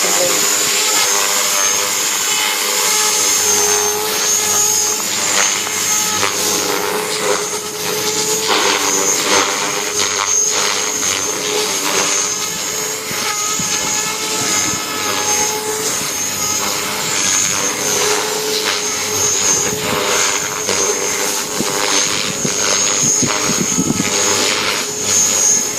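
Electric JR Forza 450 radio-controlled helicopter in flight on a 3-cell battery: a high motor-and-gear whine with the rotor's whirr. Its pitch wavers up and down during light 3D manoeuvres.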